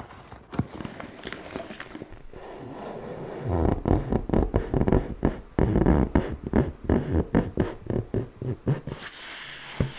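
ASMR tapping and scratching on object surfaces with the fingers. Scattered light taps at first, then a quick, dense run of taps from a few seconds in that stops near the end.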